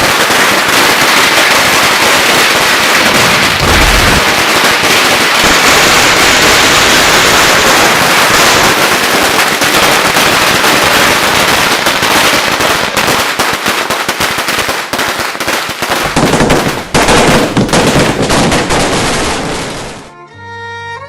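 A long string of firecrackers going off in a dense, very loud rapid crackle that cuts off suddenly near the end.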